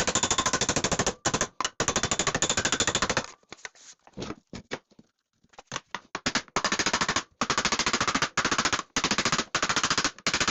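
Rapid hammer strikes on 20-gauge sheet steel, about ten a second, as the edge of a panel is hammered over a bar to form a bend. There are two long runs of blows with a stretch of scattered lighter taps between them.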